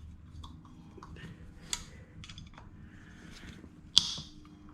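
A 4 mm hex key working the bolts of a split scooter rim loose, with small metal clicks and scrapes. There is a sharper click a little under two seconds in and the loudest, sharpest click about four seconds in.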